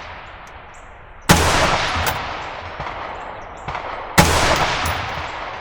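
Two rifle shots about three seconds apart, each followed by a long rolling echo, fired at distant targets while the spotter calls misses and hits.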